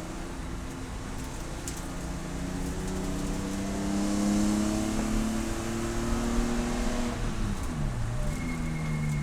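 Race car engine under load, its pitch climbing slowly as it pulls. About two seconds before the end the revs drop sharply and pick back up again.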